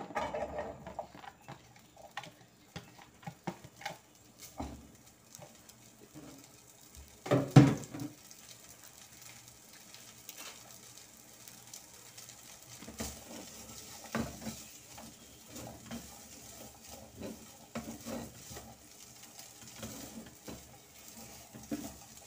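Diced salami frying in a pan, a faint steady sizzle, while a utensil stirs it with irregular scrapes and small knocks against the pan. Clicks and clatter in the first few seconds as the salami goes into the pan, and one loud knock about seven seconds in.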